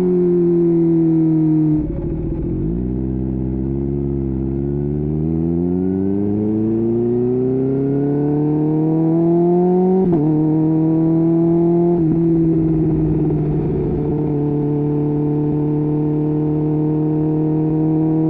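Kawasaki Ninja H2's supercharged inline-four engine under way. The revs dip about two seconds in, then climb steadily in pitch for about eight seconds under acceleration. They drop suddenly at a gear change and settle into a steady cruise.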